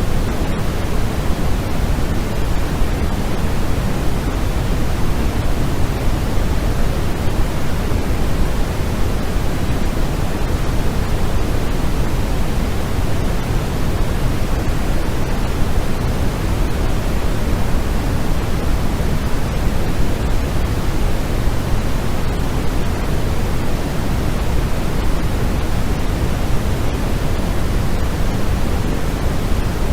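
Steady synthetic white-noise track, an unbroken even hiss that is fuller in the low end, like pink noise, with no change or events.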